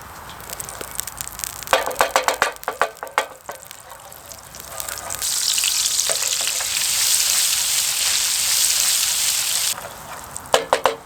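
A metal utensil clinks repeatedly against a cooking pan. Then food sizzles loudly in the hot pan for about four seconds and cuts off abruptly, followed by a few more clinks near the end.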